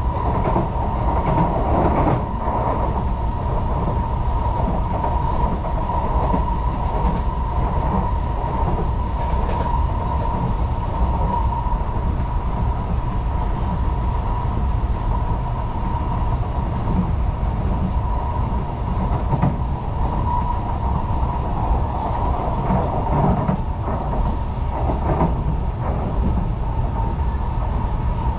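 Singapore MRT train running at speed, heard from inside the passenger car: a steady low rumble of wheels on the track with a steady whine held on one pitch throughout, and a few light knocks from the track.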